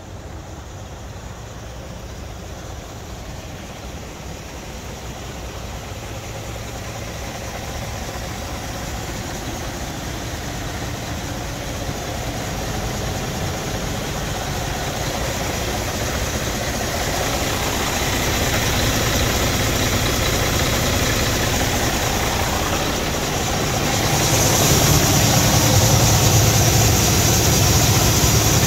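Scania R440 truck's diesel engine running at idle, growing steadily louder. About three-quarters of the way through, a strong hiss and a deeper hum join in and stay.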